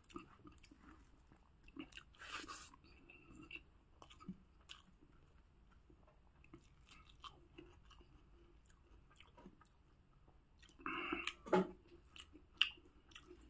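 A person chewing a mouthful of boiled pork and rice close to the microphone: scattered mouth clicks and smacks, with louder bursts about two seconds in and near the end.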